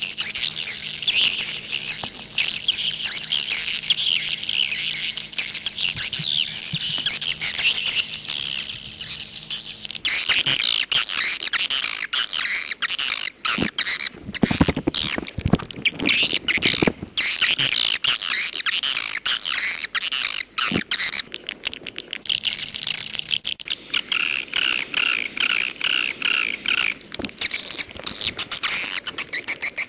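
Swiftlets twittering in a dense chorus of rapid high chirps, unbroken throughout, with an abrupt change in the recording about ten seconds in, after which short clicks appear among the chirps.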